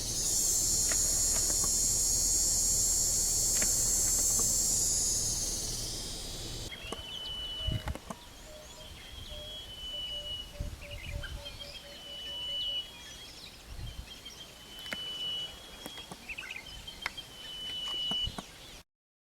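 A loud, steady high-pitched insect chorus for the first six seconds. After a cut, a bird sings a short high whistled phrase over and over, about once a second, and for a few seconds a second bird gives a quick run of low notes.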